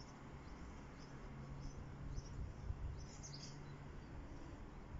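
Faint, scattered bird chirps, with a small cluster of them about three seconds in, over a steady low hum and a low rumble.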